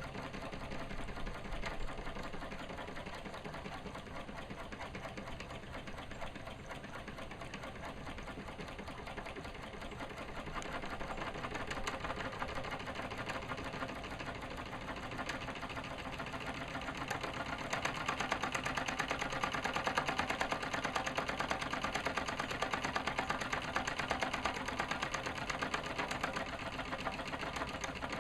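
Mamod SE2 model steam engine running fast, a rapid, even chuffing and clatter that grows louder partway through.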